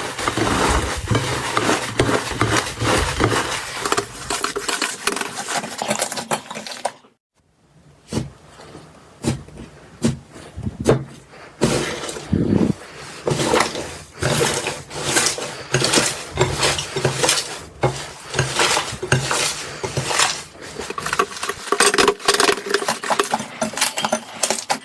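Slime being squished and pressed by hand, making a dense run of crackles and sticky pops. It breaks off briefly about seven seconds in, then goes on as slower, separate pops and taps.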